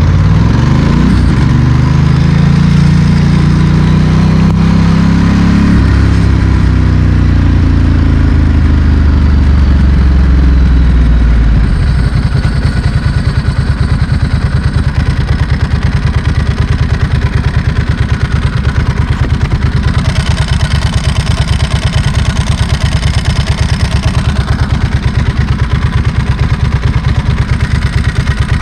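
Ducati Monster S4R's L-twin engine through a straight exhaust, rising in revs for several seconds and then easing off, before dropping to a steady pulsing idle about twelve seconds in.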